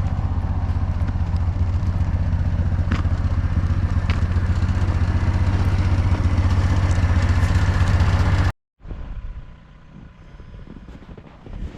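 A vehicle engine running loud and close, with a fast even pulse. It cuts off abruptly about eight and a half seconds in. A much quieter steady engine sound follows, likely the 2002 VW Beetle's ALH TDI diesel idling.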